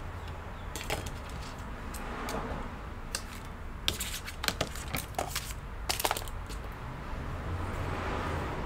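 A cluster of small sharp clicks and crackles through the middle few seconds, from hands working double-sided tape and a strip onto a laptop's case, over a low steady hum.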